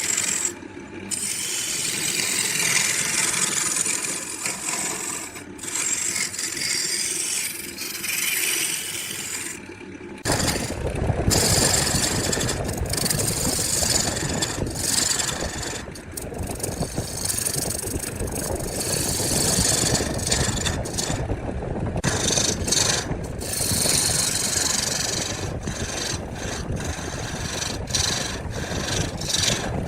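Hand tool scraping on wood in repeated strokes, with short breaks between them. About ten seconds in, a machine's deeper running noise starts and continues under the scraping.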